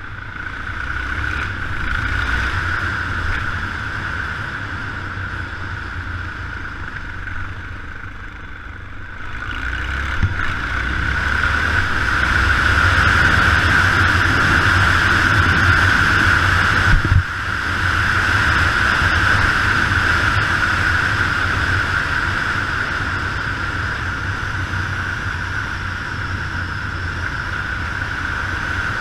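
Yamaha XT 600 single-cylinder four-stroke motorcycle engine running on the move, under heavy wind rush on the mounted action camera. It grows louder about ten seconds in, with a brief drop near seventeen seconds.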